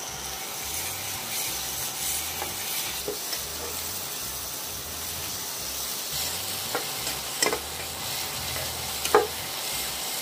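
Onion-tomato masala with freshly added ginger-garlic paste sizzling steadily in oil in a kadai while it is stirred. The utensil scrapes and knocks against the pan a few times.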